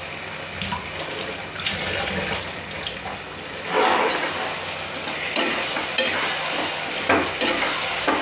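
Fried chicken pieces sizzling in masala in a non-stick kadai while a metal spatula stirs and scrapes through them, coating the chicken in the frying spice paste. There are a few louder scraping strokes in the second half.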